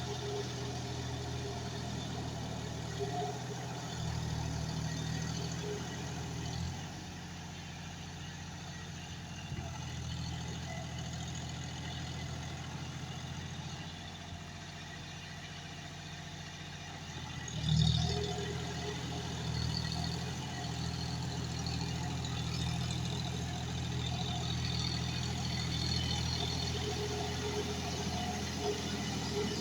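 John Deere 5105 tractor's diesel engine running steadily, its note shifting a little a few times. A brief loud knock about eighteen seconds in.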